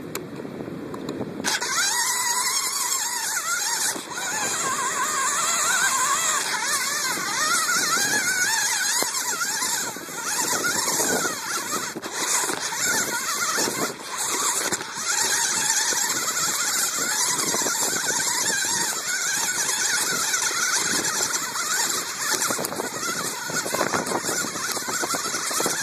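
Remote-control car's motor and gears whining from close up, the pitch rising and falling as the throttle changes, with rattling knocks from the car running over the ground.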